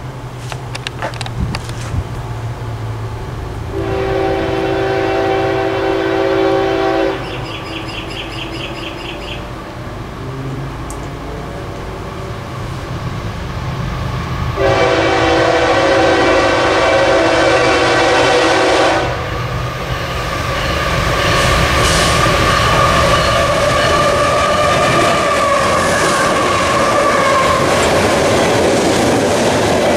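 CSX freight train's diesel locomotive horn sounding two blasts, a shorter one about four seconds in and a longer one about fifteen seconds in. The train then passes close by, with wheels rumbling and clattering over the rails and a steady wheel squeal.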